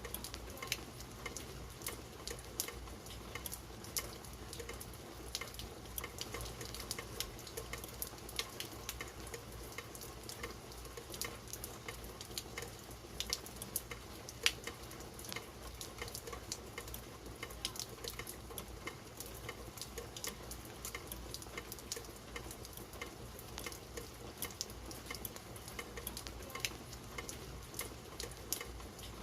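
Rain falling: a steady hiss with many irregular, sharp drop ticks scattered through it.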